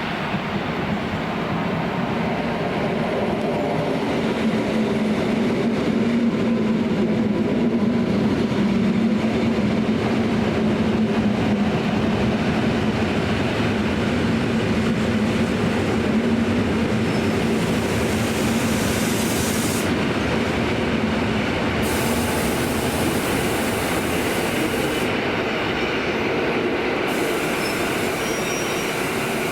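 Train running past on the tracks: a continuous rumble with a steady low drone that swells to a peak several seconds in, then slowly eases off.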